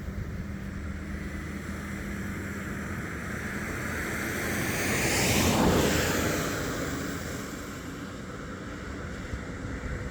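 A vehicle passing by: its noise swells to the loudest point about five to six seconds in, then fades away, over a steady wind-like background.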